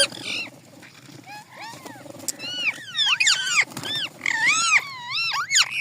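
Ringneck parrots calling: a run of quick squawking whistles, each arching up and down in pitch, soft at first and louder from about three seconds in.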